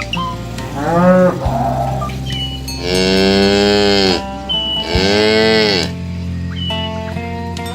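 Cattle mooing three times: a short moo about a second in, then two long, loud moos about three and five seconds in, each rising and then falling in pitch. Soft background music runs underneath.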